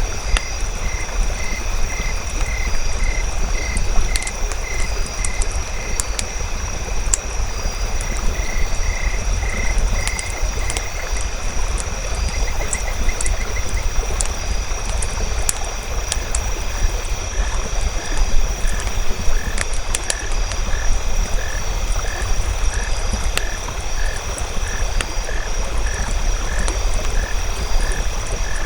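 Frogs calling in steady series of short croaks, a few a second, over the crackle of a campfire's sharp pops. A thin high-pitched tone and a low rumble run underneath.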